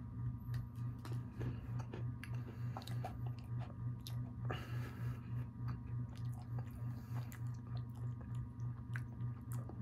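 A person biting into and chewing a pan dulce cookie, with small scattered mouth clicks and crackles. Under it runs a steady low hum that pulses evenly.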